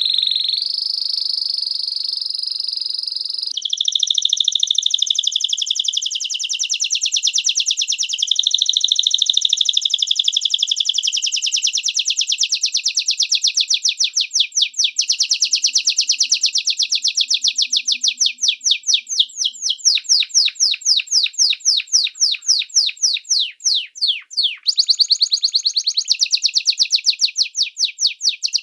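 Birdsong: a fast, continuous trill of high, rapidly repeated chirp notes, switching abruptly to a different trill about 3.5 s in and again near the end.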